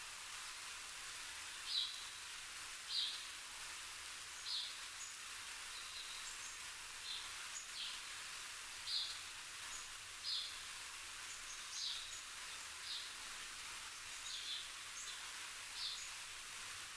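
Short high-pitched bird chirps, roughly one every second at irregular spacing, over a steady outdoor hiss.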